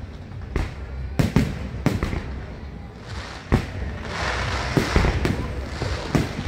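Aerial fireworks bursting: a string of sharp bangs, about nine in all, some coming in quick pairs and triples. From about four seconds in, a dense crackling from crackle shells fills the gaps between the bangs.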